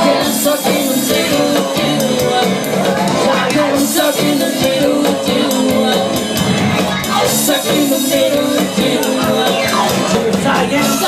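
Live band playing loud amplified music in a continuous instrumental passage.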